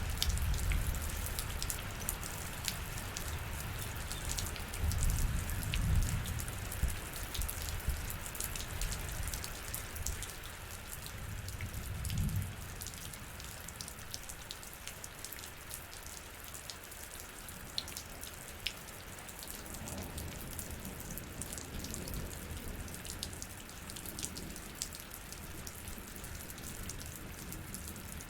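Rain falling steadily, many individual drops ticking sharply on a surface. Low rumbling swells come and go during the first dozen seconds, then die away.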